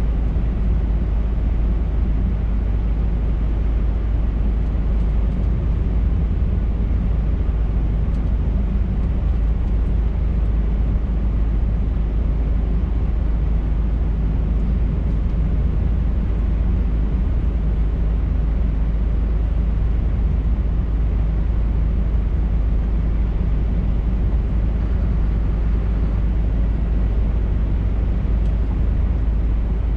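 Scania R580 truck's V8 diesel engine running steadily under way, with tyre and road noise, as a deep even rumble that does not change.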